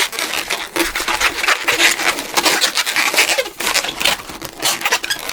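260Q latex modelling balloon being twisted and handled, rubbing and squeaking against itself and the hands in a continuous run of quick scratchy strokes.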